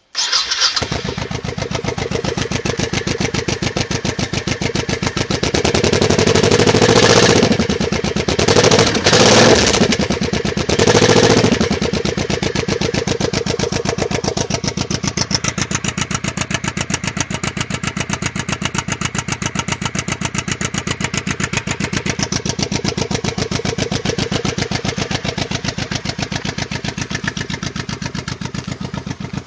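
Vehicle engine catching on a cold start and running at a fast, even idle. It is revved up a few times between about six and twelve seconds in, then settles back to idle.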